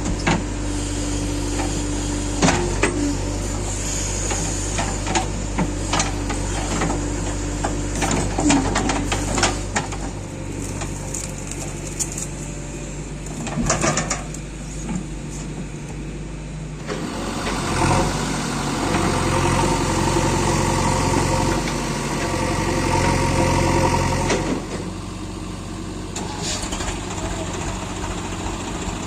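Heavy diesel machinery running steadily, with sharp metallic clanks in the first ten seconds. It grows louder from about 17 to 24 s, as if working under load, then drops back.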